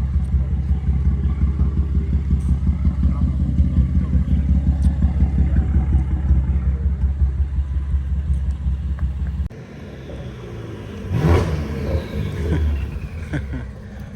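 Car engine and road noise, a loud fluttering low drone while driving, that cuts off suddenly about nine and a half seconds in. Afterwards another car passes by, loudest about eleven seconds in, its engine note falling as it goes.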